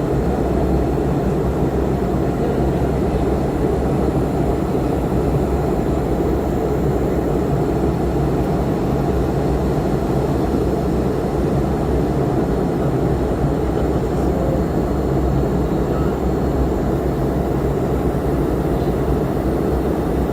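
Airbus A330 cabin noise in flight: the engines and rushing air make a steady, low rumble that holds an even level throughout.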